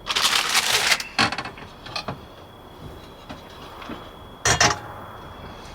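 Things being handled: a rattling scrape lasting about a second, two sharp clicks, then a shorter rattle about four and a half seconds in.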